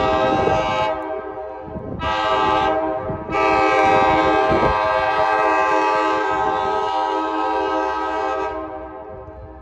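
Excursion train's horn sounding in blasts: a long blast ending about a second in, a short one about two seconds in, then a long blast of about five seconds that dies away near the end, over the low rumble of the moving train.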